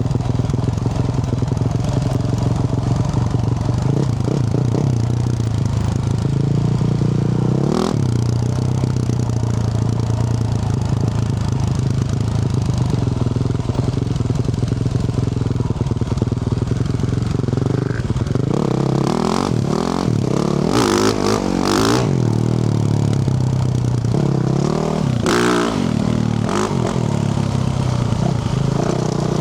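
2024 Yamaha YZ450F's 450 cc single-cylinder four-stroke engine, through a Yoshimura RS-12 exhaust, running under way off-road: a steady engine note for most of the time, then rising and falling revs over the last ten seconds. A few sharp clacks sound about eight seconds in and again between about nineteen and twenty-two seconds.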